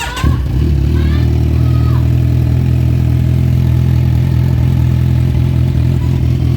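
Kawasaki Z1000R inline-four motorcycle engine catching with a sudden jump in level just after the start, then idling steadily. It runs through a gutted stock muffler with the catalytic converter deleted.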